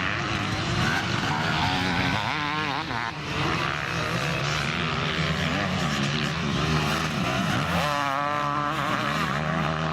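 Motocross bikes racing: several engines running hard together, their notes revving up and down, with one bike's pitch swinging up and down clearly about two and a half seconds in and again around eight seconds.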